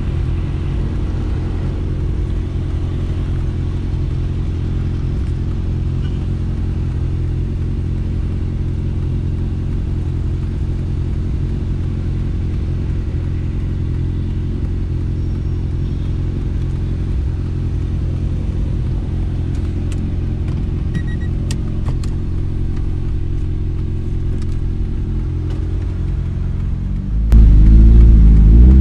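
Car engine idling steadily, heard from inside the cabin. Near the end it suddenly gets much louder and rises in pitch as the car accelerates away.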